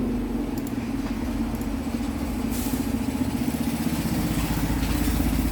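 A steady low engine hum, with a hiss that swells about two and a half seconds in and again near the end.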